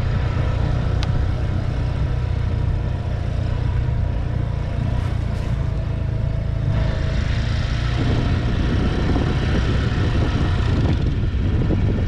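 Motorcycle running along the road during a ride, a steady low rumble with a faint wavering tone above it.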